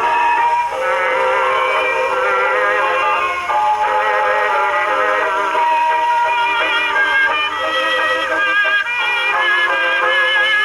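A 78 rpm record playing on a Victor Type V acoustic horn phonograph through an exhibition reproducer, with the spring motor under test. The music sounds thin, with no deep bass.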